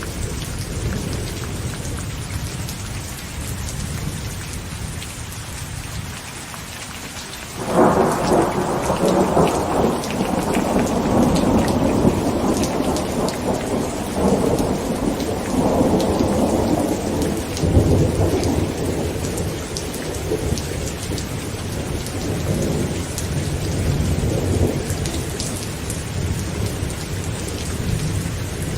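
Heavy rain falling steadily on a tent, with a sudden thunderclap about eight seconds in that rolls on for most of the rest, slowly dying away.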